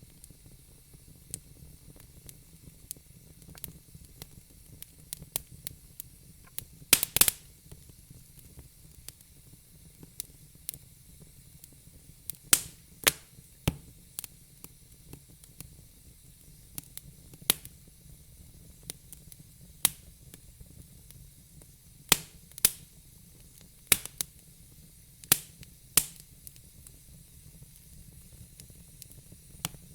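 Crackling fire: irregular sharp pops and snaps, some clustered in quick pairs, over a faint steady hiss.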